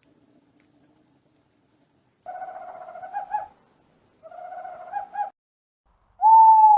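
A bird calling with hoot-like notes: two wavering calls about two seconds apart, then a louder, longer, steady call near the end.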